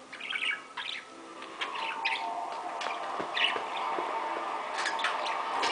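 Pet talking bird chirping in quick, short calls, with a steady held tone underneath from about a second and a half in.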